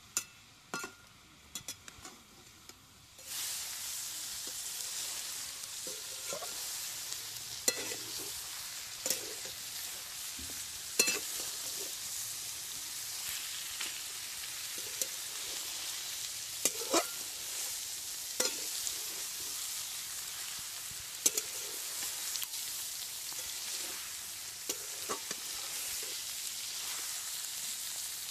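Chicken pieces in a turmeric-spice coating frying and sizzling in a metal pan while a metal spatula stirs them, scraping and knocking against the pan every second or two. The first seconds hold only a few light spatula taps; the steady sizzle comes in suddenly about three seconds in.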